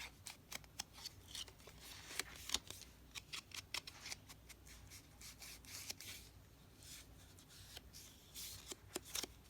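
Handwork on paper card: a run of light, irregular clicks and taps with a few brief rubbing passes, as card edges are worked.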